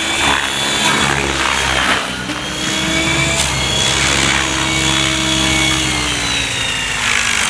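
Gaui X7 radio-controlled helicopter in flight: the steady whine of its rotor and drivetrain with a high whistle over it, the pitch drifting slowly and dropping a little near the end as the rotor speed changes.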